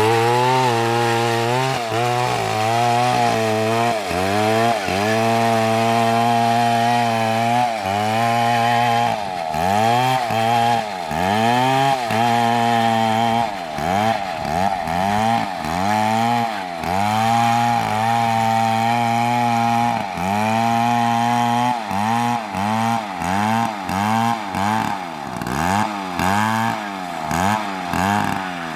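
Large Stihl two-stroke chainsaw cutting into a big tree, running at high speed. In the second half its engine note dips and recovers over and over, about once a second, as the chain loads up in the cut or the throttle is worked.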